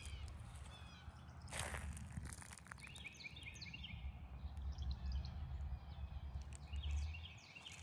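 Small birds chirping outdoors in short clusters of quick notes, about three seconds in and again near the end, over a steady low rumble, with a brief rustle about one and a half seconds in.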